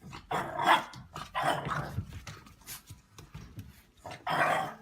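A dog giving several short vocal bursts, barks or growls, three or four times.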